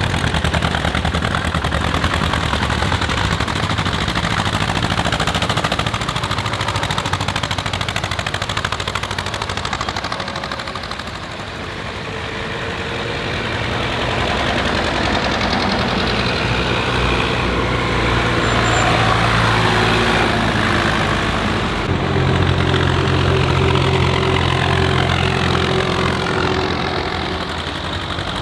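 Tractor engines running as tractors drive past one after another. The sound dips about eleven seconds in, and a deeper, steadier engine note takes over about twenty-two seconds in.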